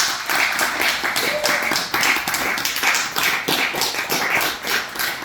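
Applause: many hands clapping in quick, irregular claps right after the piano piece ends.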